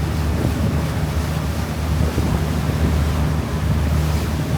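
Wind buffeting the microphone on a river cruise boat, over the boat's steady low rumble and the rush of water.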